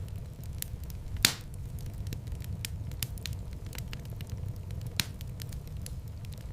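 Fireplace fire crackling over a steady low rumble of flames, with many small crackles. A sharp loud pop comes about a second in and another near the end.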